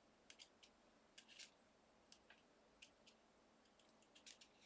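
Near silence with faint, scattered small ticks and scratches: a small tool poking cut bits of copy paper out of a thin metal cutting die.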